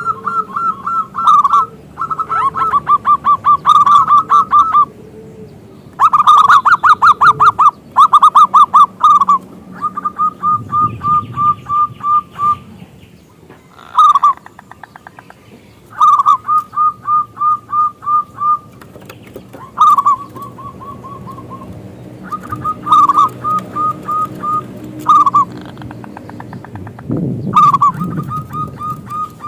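Zebra dove (perkutut) calling: repeated bouts of rapid staccato cooing notes, some long and loud, others short runs of a few notes, separated by brief pauses.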